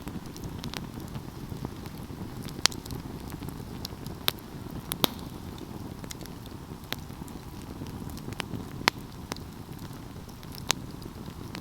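Wood fire burning, with a steady low rush of flames and irregular crackles, a handful of them sharp, loud pops.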